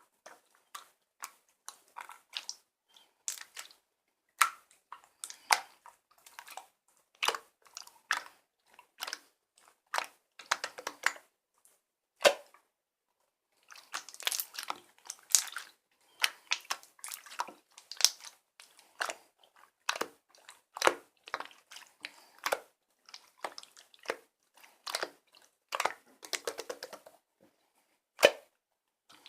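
Mixed slime being squeezed and worked by hand, giving a dense string of irregular sticky clicks and pops, with a short pause about halfway through.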